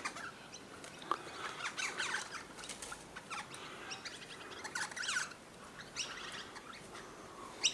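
Birds chirping faintly, with short high calls scattered through and quick runs of repeated notes about two seconds in and again around five seconds.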